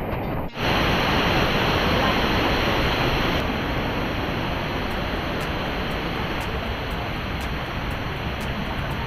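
Steady rush of water pouring over small multi-layered waterfalls into pools, dropping out for an instant about half a second in, then running on, a little quieter after about three and a half seconds.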